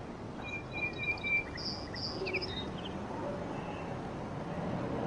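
Steady outdoor background ambience with several short, high bird chirps in the first half.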